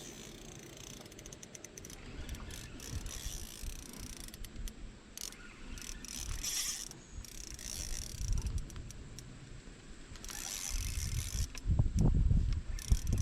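Small spinning fishing reel being cranked in stretches, its gears and anti-reverse giving a ratcheting whir. Heavier low knocks and rumbles of handling come near the end.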